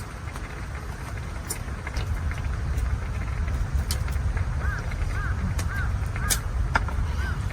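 A bird calling a run of short repeated notes, about two a second, starting a little past halfway, over a steady low rumble.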